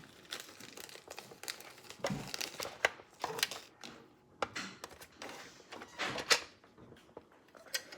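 Scattered clicks, taps and scrapes of a screwdriver and small engine parts being handled while screws are driven in, the sharpest knocks about two, three and six seconds in.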